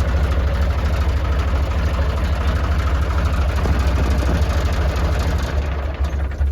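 Tractor engine running steadily with a low, throbbing beat, cutting off at the very end.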